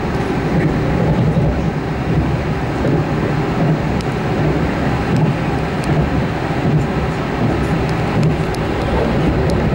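Passenger train running at speed, heard from inside the carriage: a steady low rumble of wheels on the rails, with a few faint high clicks.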